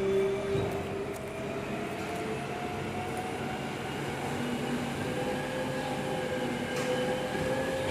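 Volvo FE 300 recycling truck running, with a steady whine that slowly rises in pitch.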